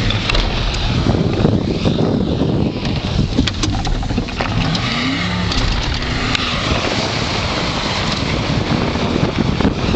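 Pickup truck engine running hard while the truck is driven across rough field ground, with a dense rumble and a few sharp knocks. About five seconds in the engine note rises.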